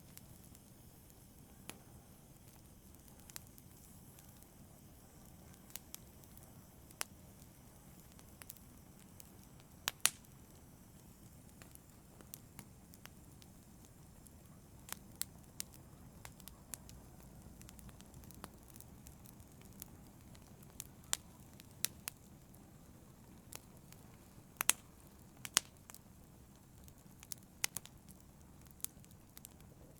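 Wood fire crackling in a fireplace: irregular sharp pops and snaps, loudest about a third of the way in and again near the end, over a low steady background of the burning.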